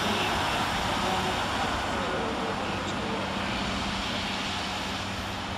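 Sprinter diesel multiple unit running with a steady engine drone, slowly fading as it moves.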